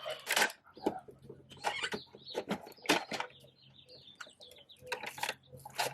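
Plastic toy garbage truck being handled: a quick, irregular run of clicks and knocks, with a wavering squeak in the middle.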